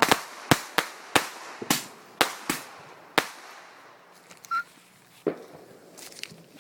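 Fireworks going off: a run of sharp bangs, about eight in the first three and a half seconds, getting quieter, then one more bang near the end.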